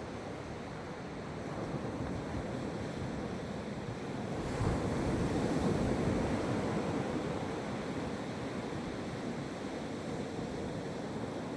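Atlantic Ocean surf washing onto a beach: a continuous low rushing of breaking waves that swells about four and a half seconds in as a wave breaks, then eases. Some wind on the microphone.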